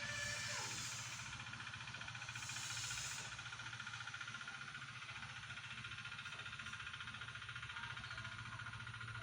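A car engine idling with a low, rapid, even pulse, and two brief hissing swells in the first three seconds.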